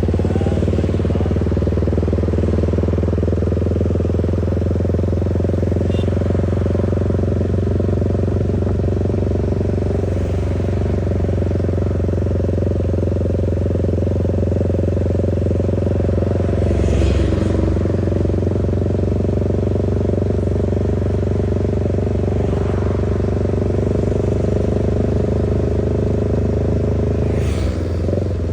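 Motorcycle engine running at a steady speed, an even low drone that holds its pitch with no revving.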